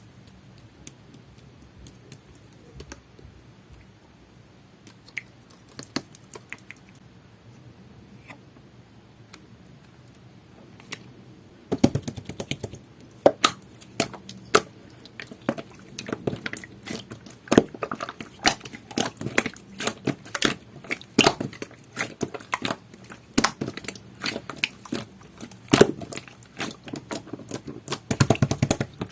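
Jelly-textured slime being squished and stretched by hand, giving sticky clicking and popping. A few faint clicks at first, then from about twelve seconds in the clicks and pops come thick and fast.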